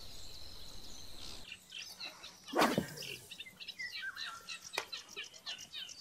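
Wild birds chirping, with many short, quick calls in the second half. One brief loud noise comes a little after two and a half seconds in.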